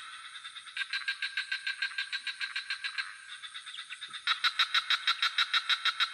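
Frogs calling in rapid pulsed trills, about nine pulses a second, in overlapping bouts, with a louder bout starting about four seconds in. A steady high insect drone runs underneath.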